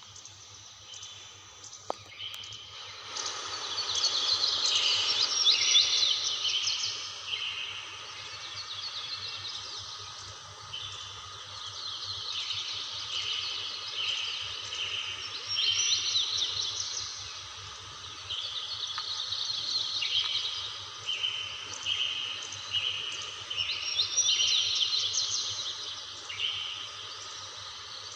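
Birds chirping and trilling in a dense, repeated chorus over the steady rush of a waterfall, the calls growing louder about three seconds in.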